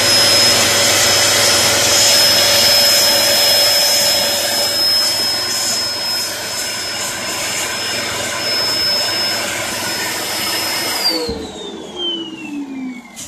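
Hoover Performer Pet upright vacuum cleaner's motor running with a steady high whine, its intake blocked. About 11 seconds in it cuts off with a knock, and the whine falls in pitch as the motor spins down.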